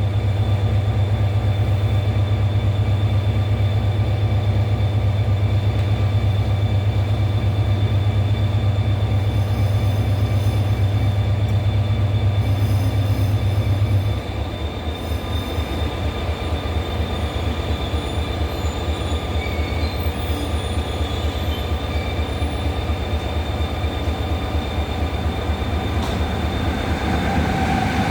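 Seoul Subway Line 1 electric train at the platform, a steady hum of its running equipment with several held tones above it. The low hum steps down in level about halfway through.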